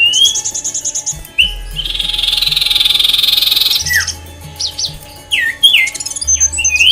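Aviary birds calling: a series of short, falling squawks, and a longer harsh chatter from about a second and a half to four seconds in, over background music with low bass notes.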